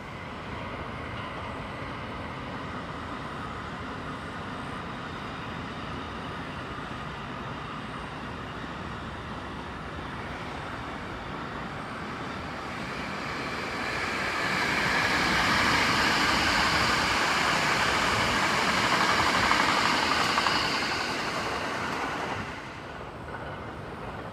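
An electric train passing on nearby tracks. The noise of its wheels on the rails swells about thirteen seconds in, stays loud for about eight seconds and drops off sharply near the end, over a steady background of distant noise.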